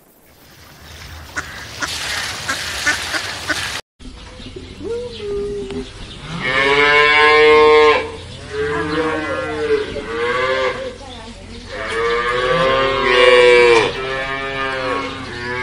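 Cattle mooing: about six drawn-out calls in a row, the loudest two in the middle. They follow a few seconds of hissy outdoor noise that breaks off in a cut.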